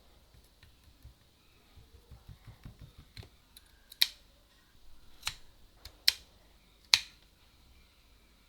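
Olympus Ace film camera being worked by hand: a run of small ratcheting ticks, then four sharp clicks about a second apart, typical of its Copal leaf shutter being fired.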